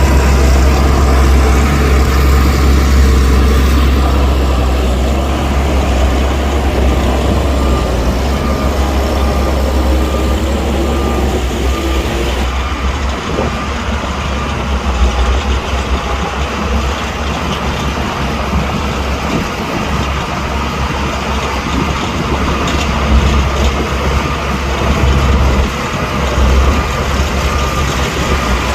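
Heavy diesel engines of earthmoving machines, a bulldozer and dump trucks, running with a steady deep drone.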